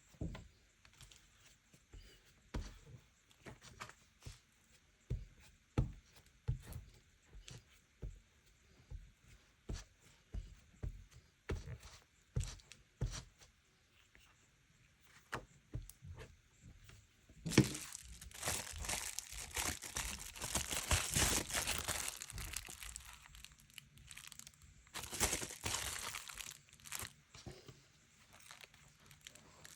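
Paper being handled for junk journaling: scattered light taps and rustles at first, then from about halfway through a long stretch of paper tearing and crinkling, with a shorter burst a few seconds later.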